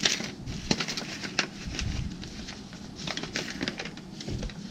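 Hands rummaging through old papers and small items: a run of irregular rustles and light clicks.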